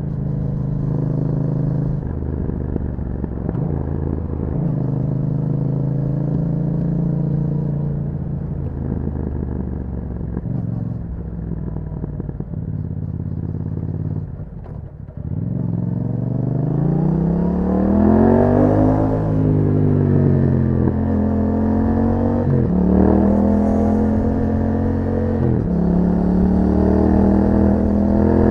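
2021 Yamaha MT-07's 689 cc parallel-twin engine through an Akrapovic exhaust, on the move: it runs at a fairly steady pace for the first half, dips briefly as the throttle closes about halfway, then pulls hard with the revs climbing and dropping back through several gear changes.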